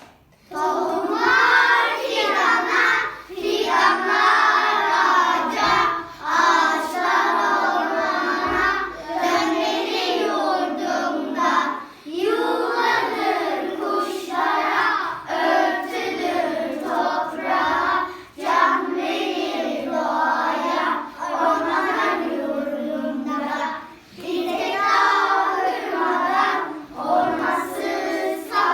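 Children singing a song together, in phrases of a few seconds with short breaths between them.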